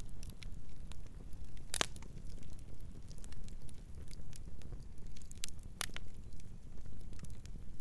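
Wood fire crackling: an irregular run of sharp pops and snaps over a steady low rumble, with louder pops about two seconds in and again near six seconds.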